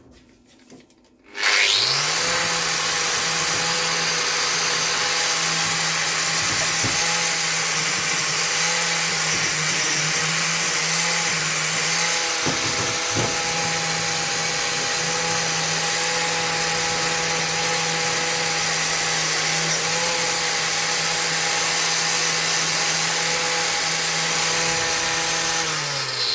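A power tool's electric motor spins up about a second in, runs steadily at one speed, and winds down at the end.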